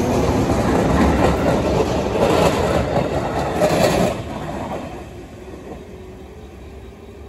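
A three-car 211 series electric train departing and running past, its wheels clattering over the rail joints. About four seconds in, the sound drops sharply as the last car goes by, then fades as the train pulls away.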